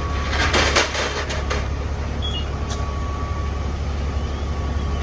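Fire apparatus diesel engines running steadily with a deep, constant hum, and a brief burst of hissing noise about half a second to a second and a half in.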